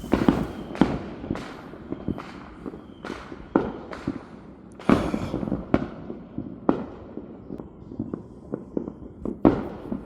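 Fireworks going off all around: an irregular string of sharp bangs and crackles, with several louder booms trailing into rumbling echoes.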